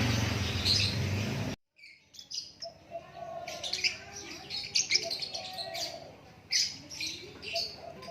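A songbird singing a run of quick high chirps, with a lower wavering whistle beneath. A louder noisy rumble with a low hum fills the first second and a half, then cuts off abruptly.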